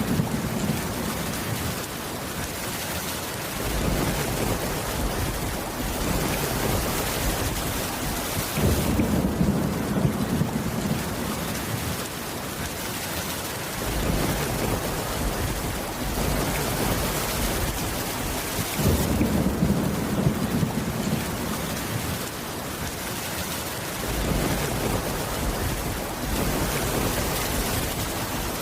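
Steady heavy rain with low rumbles of thunder swelling and fading about every five seconds.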